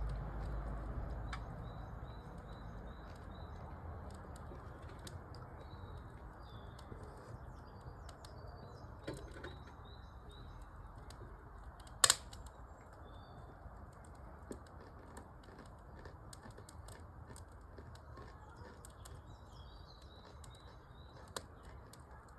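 Wood fire crackling in a fireplace: scattered sharp ticks and pops, with one louder crack about halfway through. Small birds chirp in short runs of high notes now and then.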